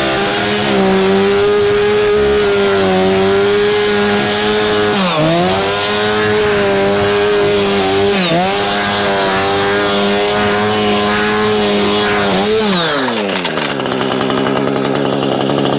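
Two-stroke chainsaw held at high revs, its pitch dipping briefly twice as the chain bites into a cardboard box, then falling back to idle about thirteen seconds in.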